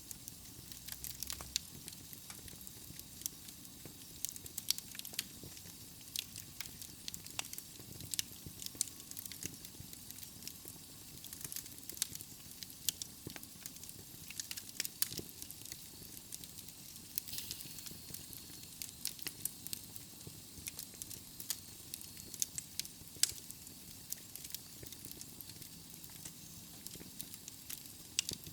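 Wood fire burning in a fireplace: a steady soft hiss with irregular sharp crackles and pops from the burning logs.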